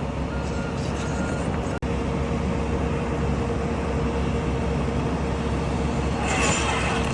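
Steady low engine rumble of a running vehicle or machine, with a brief dropout about two seconds in and a short hissing, rasping noise near the end.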